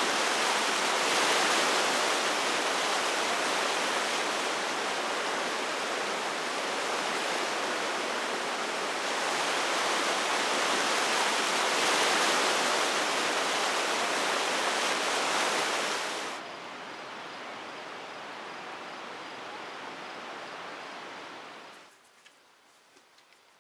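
Steady heavy rain, an even wash of noise. About sixteen seconds in it drops suddenly to a quieter rain, and about twenty-two seconds in it falls to near silence with a few faint ticks.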